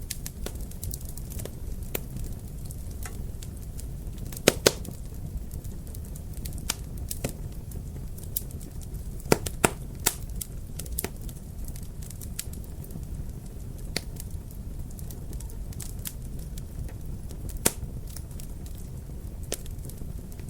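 Wood fire crackling in a fireplace: a steady low rumble of the flames with scattered sharp pops, the loudest a pair about four and a half seconds in and a cluster around nine to ten seconds.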